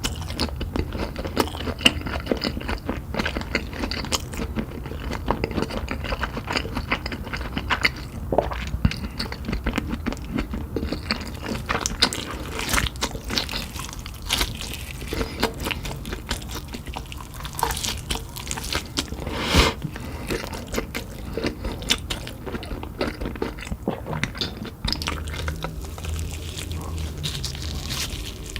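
A person biting into and chewing crunchy Cheetos-coated meat fingers, with repeated crunches and crackles.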